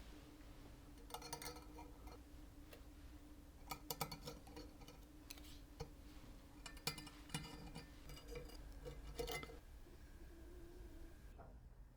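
Scattered clusters of light clicks and ticks as small metal parts of a mechanical calculator are handled, over a faint steady hum.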